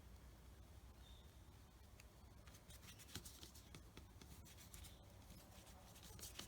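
Faint scratchy strokes of drawing on paper, coming in quick clusters through the second half.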